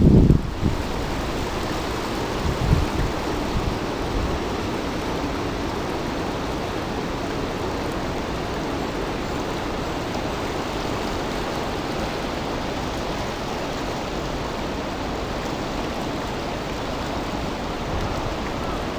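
A river running high and rushing steadily after a typhoon, a constant even rush of water. Wind buffets the microphone at the very start and again briefly a few seconds in.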